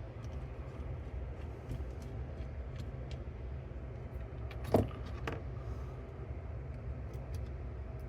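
Screwdriver work on a cassette deck's tape transport: scattered small clicks of metal screws and parts, with a sharper knock about five seconds in, over a steady low background hum.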